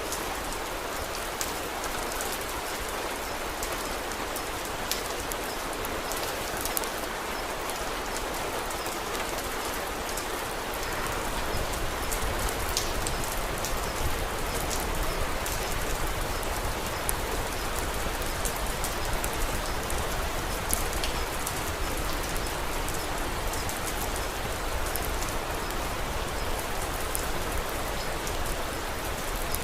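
Steady rain falling, with many small sharp crackles scattered through it from a fireplace. About a third of the way in, a low rumble fills in and the sound gets slightly louder.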